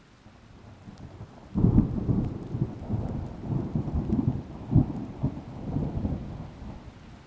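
Thunder: a low rumble builds, then a loud crack breaks about a second and a half in and rolls on as irregular crackling rumbles for several seconds, dying away near the end.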